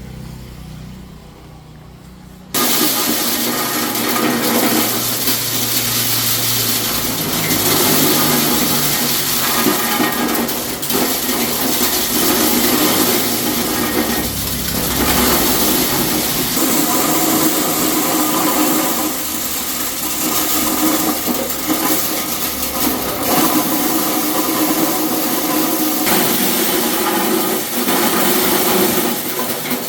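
Mini corn thresher running: a low steady hum, then about two and a half seconds in a loud, even mechanical noise starts suddenly and keeps going.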